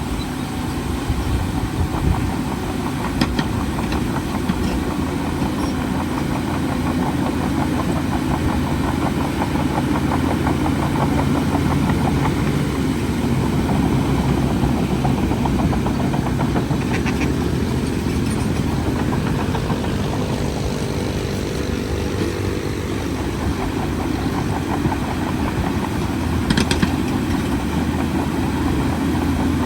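Bulldozer's heavy diesel engine running steadily, with a few short metallic clinks.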